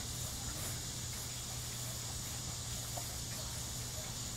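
Faint, steady background noise: a low hum and a thin high whine, with a few soft ticks scattered through it.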